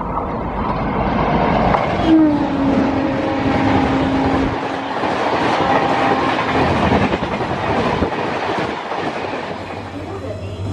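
Yeswantpur–Vasco Express passenger train rolling into the station, its wheels clattering over the rails in a continuous loud rumble. A steady low tone sounds about two seconds in and lasts a couple of seconds.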